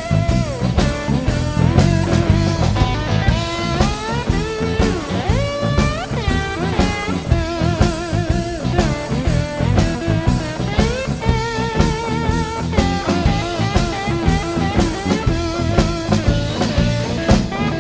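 Instrumental break in a blues song: a slide guitar solo that glides between notes with a wide vibrato, over electric bass and a drum kit.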